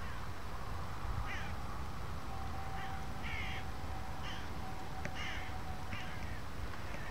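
Birds calling out of sight, a handful of short calls spaced about a second apart, over a steady low rumble.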